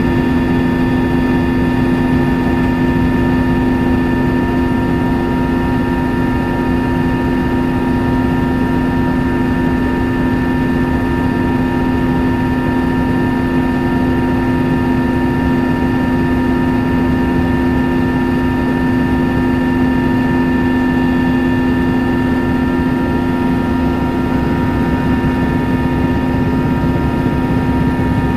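Helicopter in flight, heard from inside the cabin: a loud, steady drone of engine and rotor with several constant whining tones over it.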